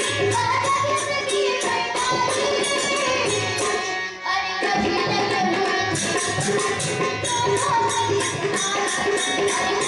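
Devotional bhajan music: a group of girls singing to tabla and percussion keeping a steady, even beat. The music drops out briefly about four seconds in, then carries on.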